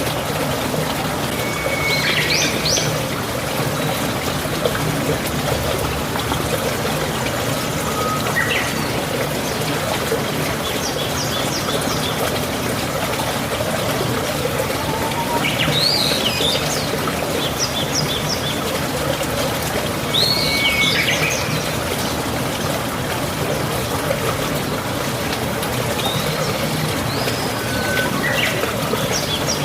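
Steady trickling, flowing water, with birds chirping in short calls every few seconds.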